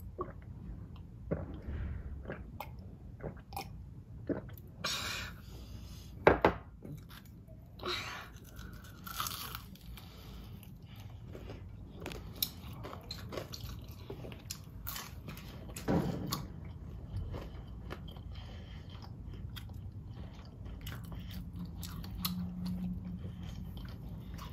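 A child chewing and biting crispy deep-fried dumplings: irregular crunches and clicks, a few of them sharp and loud.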